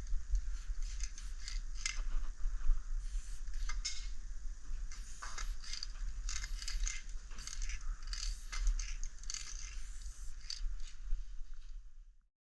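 Aerosol spray paint can hissing in repeated short bursts over a low rumble; it stops just before the end.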